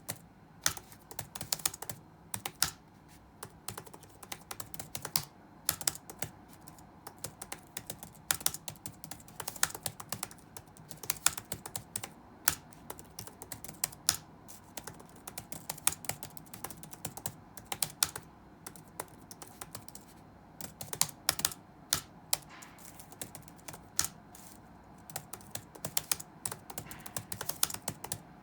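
Computer keyboard being touch-typed: quick runs of key clicks with short pauses between them, over faint steady room noise.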